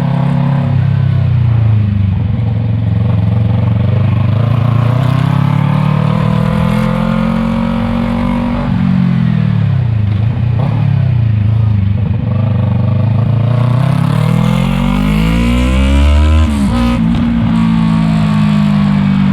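Yamaha MT-03 parallel-twin engine through an aftermarket Arashi exhaust, under way. Its note climbs and falls several times as the throttle opens and closes; the longest climb ends with a sudden drop about sixteen seconds in, and the note then holds steady.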